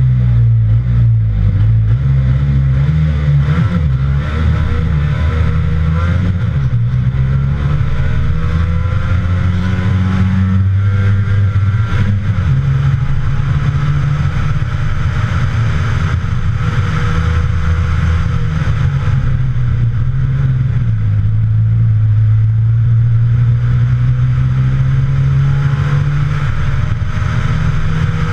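Trabant 601 RS rally car's two-stroke twin-cylinder engine under hard acceleration, heard on board. Its pitch climbs and drops in steps as the car works through the gears.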